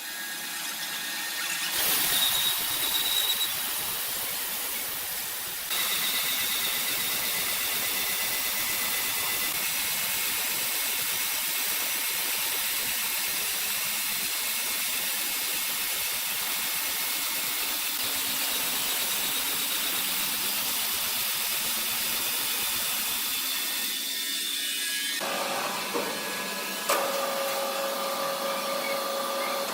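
Steady, hissing mechanical noise of woodworking machinery running, changing abruptly a few times as the footage cuts between machines.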